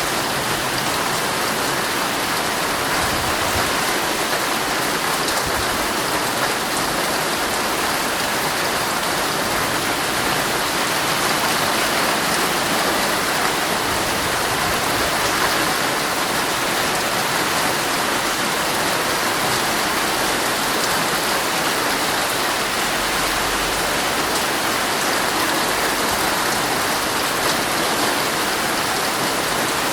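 Heavy rain falling steadily on a tent, a dense even patter with no breaks.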